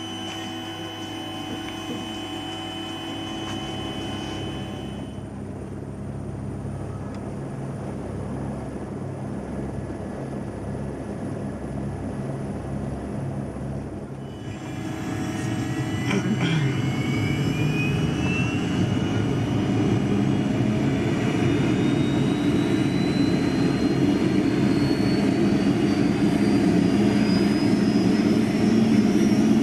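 Helicopter turbine engine starting up: after a stretch of steady mechanical hum, the noise grows louder about halfway through, and a whine rises steadily in pitch over the last dozen seconds as the engine spools up.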